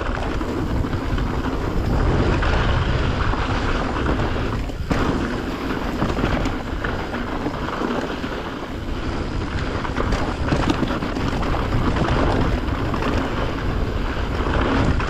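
Mountain bike riding fast down a dirt trail: steady wind rushing over the microphone, with tyre noise on the dirt and the bike rattling over bumps.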